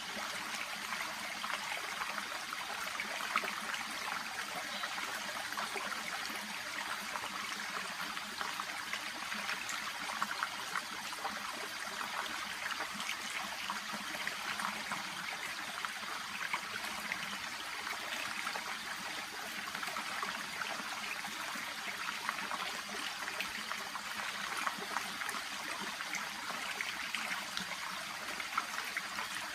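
Shallow stream babbling and trickling steadily over stones and around water plants, a continuous bright gurgle of small splashes.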